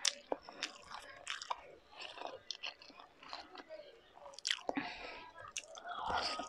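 A person chewing food with the mouth close to the microphone, making many short wet clicks and smacks. A louder bite comes near the end as more food goes into the mouth.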